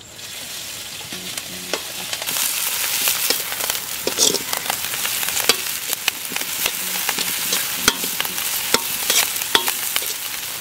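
Chopped green chillies and garlic sizzling in hot oil in a black kadai, stirred with a perforated steel ladle that scrapes and clicks against the pan. The sizzle swells over the first couple of seconds as the chillies hit the oil.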